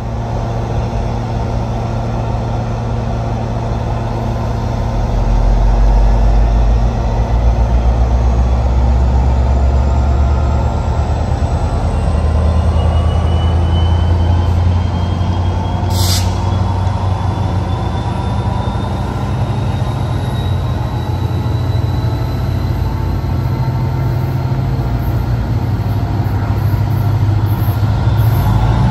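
Diesel commuter train locomotive running, a loud, steady low engine drone that swells about five seconds in, with a faint whine slowly rising in pitch. A single sharp click about halfway through.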